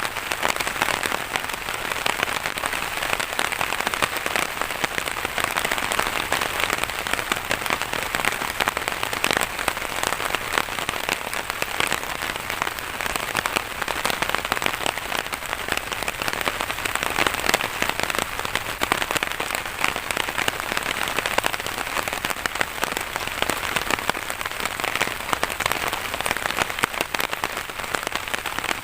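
Steady rain falling, a dense patter of drops at an even level.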